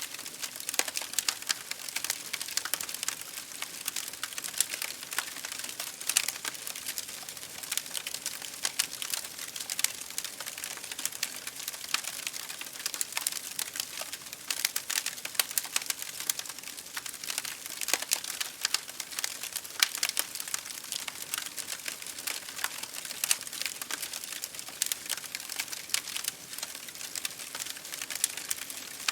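Campfire of burning wood crackling, with a dense, continuous stream of sharp snaps and pops.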